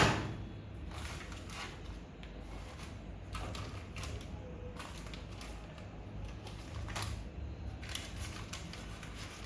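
Microwave oven running with a steady low hum, beginning with a sharp knock and followed by faint scattered clicks and taps.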